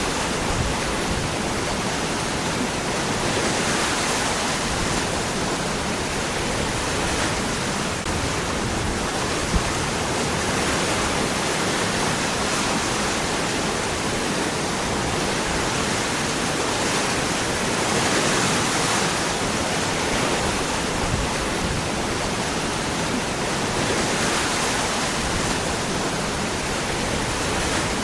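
Waterfall: water falling and rushing over rocks in a steady, dense roar, with no pauses or changes.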